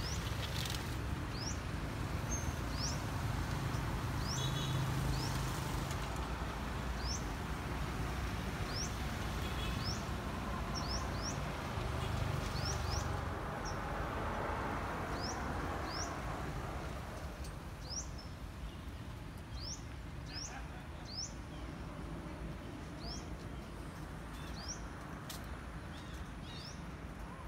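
A small bird's short, high chirps repeated about once a second over a low steady rumble that fades out about halfway through.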